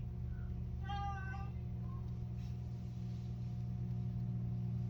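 A pet cockatoo gives one short, high-pitched, meow-like call about a second in, with a couple of fainter chirps around it, over a steady low hum.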